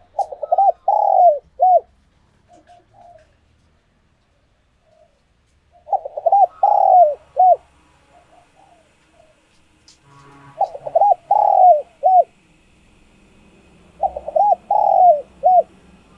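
A tame spotted dove cooing: four phrases a few seconds apart, each a quick run of four or five short coos.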